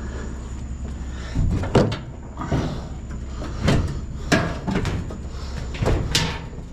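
Heavy scrap being handled and knocked about as it is loaded: a series of about six knocks and bangs a second or so apart, over a steady low hum.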